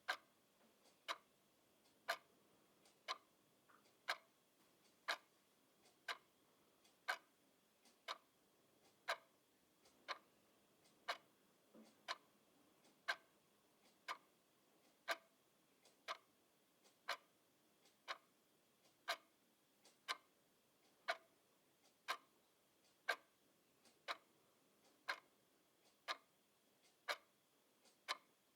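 Clock ticking steadily and evenly, about one sharp tick a second.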